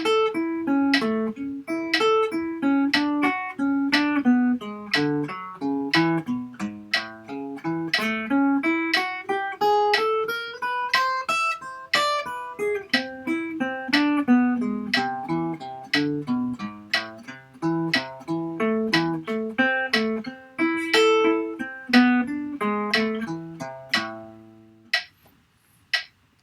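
Guitar playing a slow single-note melody in 6/8, note by note, over a steady metronome click. The guitar stops near the end while the click keeps ticking.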